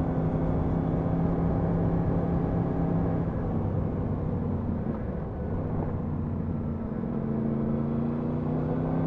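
Yamaha MT-10 SP's crossplane inline-four engine running steadily on the move, with wind rush. About three seconds in the engine note eases off and the wind rush takes over, and the engine note comes back near the end.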